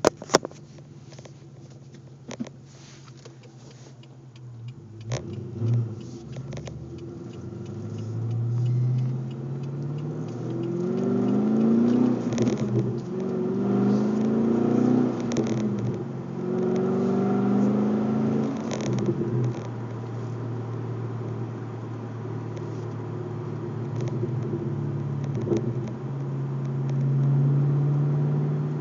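Pontiac G8 GXP's V8 through an SLP Loudmouth axle-back exhaust, heard from inside the cabin. It runs at a steady low note, then from about ten seconds in pulls up through three gears, each rise in pitch dropping back at a shift, before settling to a steady cruise with a short swell near the end. A few sharp clicks come near the start.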